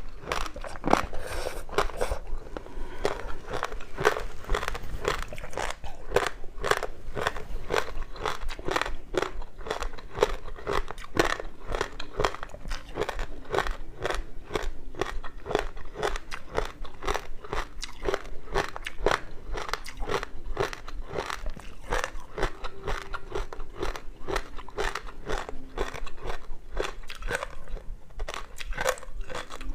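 Close-miked crunching and chewing of frozen ice, a rapid run of sharp crackling crunches several times a second.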